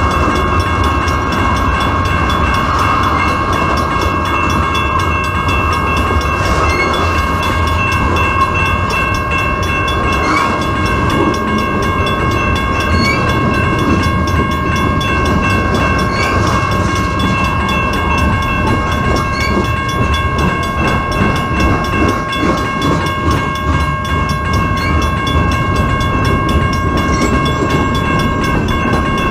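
Freight train rolling past: a steady rumble with clickety-clack of wheels over rail joints, and continuous high ringing tones held above it.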